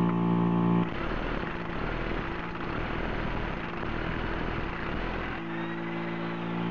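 A 1/2-inch impact wrench on a 21 mm lug nut: it whines as it spins up, hammers for about four and a half seconds while breaking the nut loose, then spins freely again with a steady whine near the end as the nut runs off.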